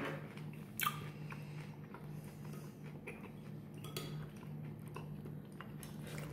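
A person chewing a mouthful of soup-dunked onion ring with the mouth closed, with a sharp click about a second in and a few softer clicks, over a faint steady low hum.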